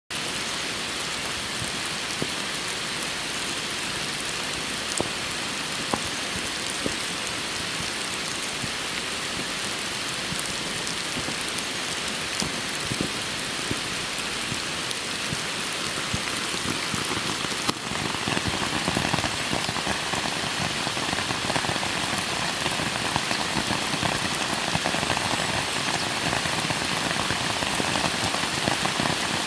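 Rain falling steadily, with scattered sharper drop ticks. It grows louder and fuller a little past halfway.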